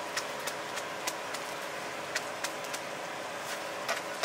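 Shredded potato for potato cakes cooking on a griddle tray, a steady sizzling hiss broken by scattered sharp clicks of a flat metal scraper pressing and scraping against the metal tray.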